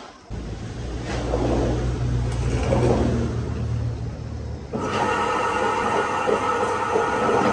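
Small engine of a restored concrete mixer running with a steady low rumble. Just before five seconds the sound changes abruptly to a fuller, higher hum with several steady tones.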